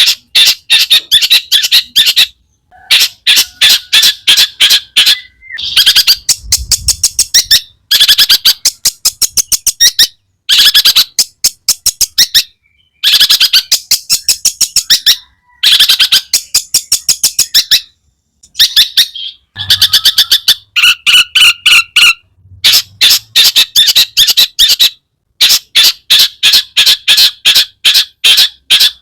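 Long-tailed shrike (cendet) singing a loud, chattering song. It comes as rapid strings of short notes in bouts of one to two seconds, separated by brief pauses.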